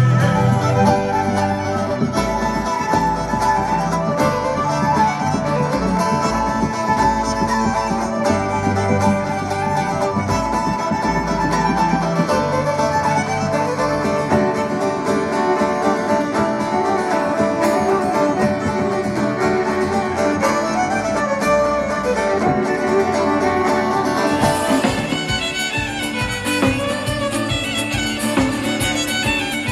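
Celtic folk music with a fiddle carrying the tune over guitar, and a change in the arrangement about 24 seconds in.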